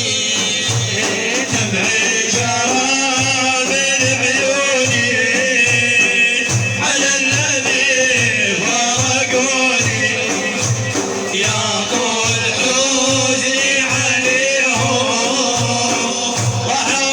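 Male voice chanting an Iraqi mawlid religious song over frame drums beating a steady rhythm, about three beats every two seconds.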